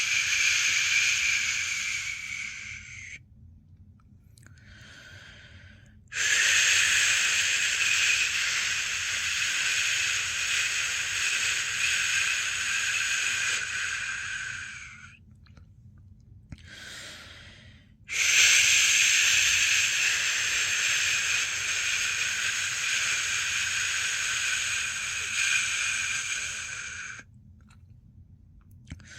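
A person shushing a long, steady "shhh" to soothe a newborn to sleep, each shush lasting about nine seconds. Brief pauses come about three seconds in and again near the middle, before the next shush starts.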